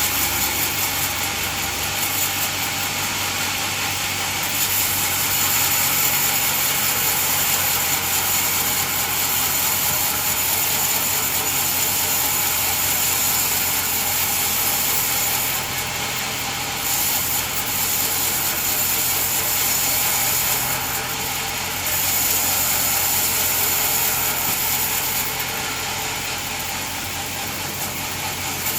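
Sawmill machine running steadily, a low motor hum under a strong high hiss, dropping briefly in level a few times.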